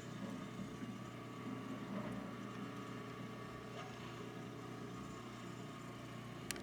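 Engine of snow-clearing equipment running steadily with a low hum, and a brief click near the end.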